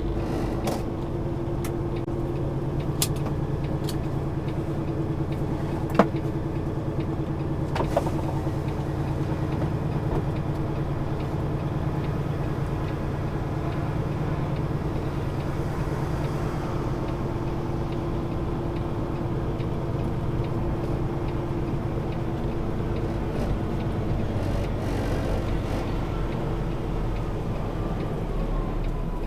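Semi-truck diesel engine running steadily, with a few sharp clicks in the first several seconds.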